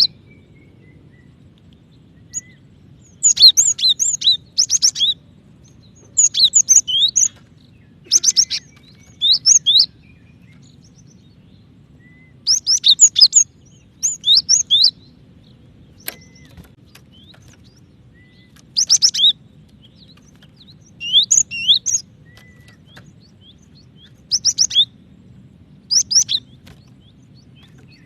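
Female cinereous tit calling: about a dozen short, fast bursts of high chirps, each under a second, repeated at irregular gaps of one to three seconds. This is the call a female uses to draw males. A faint steady low hum runs underneath.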